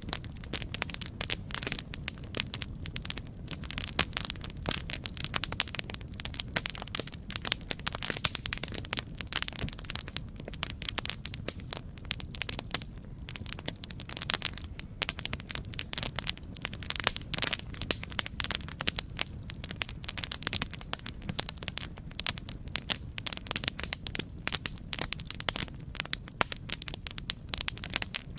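Campfire crackling: a dense, irregular run of sharp pops and snaps over a steady low rumble of burning.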